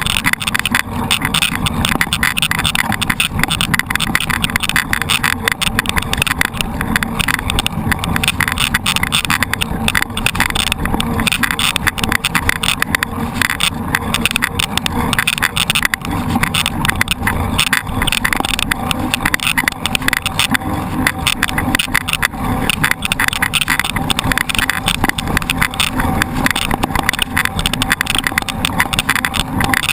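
Mountain bike being ridden over rough ground, a steady loud noise of wind on the microphone and rapid rattling of the bike.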